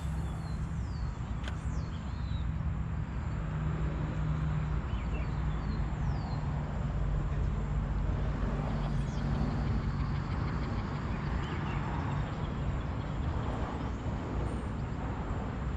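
Motor vehicle engine running on the road beside the canal, a steady low hum over a rumble that swells a little towards the middle, with a few short bird chirps.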